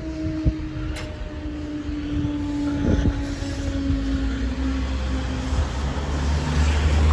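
Southeastern Class 395 Javelin electric train on the move, its motors giving a steady whine that slowly falls in pitch, with a low rumble growing louder towards the end.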